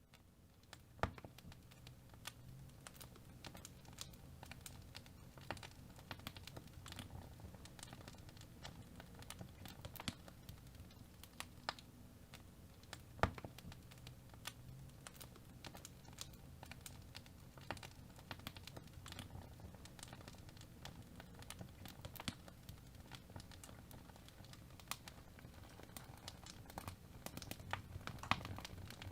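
Wood fire in a fireplace burning with a low rumble and a constant, irregular crackle of small pops and snaps, a few sharper pops standing out, the loudest about thirteen seconds in.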